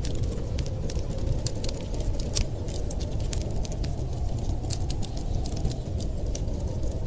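Wood fire crackling, with frequent sharp irregular pops, over a steady low rumble of storm wind.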